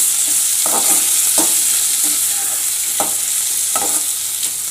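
Onions, tomatoes and curry leaves frying in oil in an aluminium kadai with a steady sizzle. A metal spoon stirs them, scraping and knocking against the pan several times.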